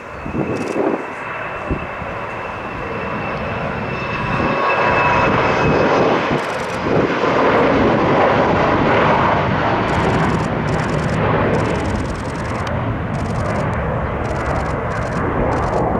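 Jet aircraft engines passing close by, a broad roar that builds over the first several seconds and then holds, with a thin high whine at the start that fades away.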